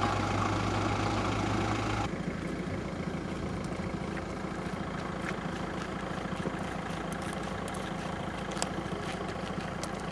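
A car engine idling. About two seconds in, the sound changes abruptly to a steadier, lower hum, with scattered short clicks in the second half.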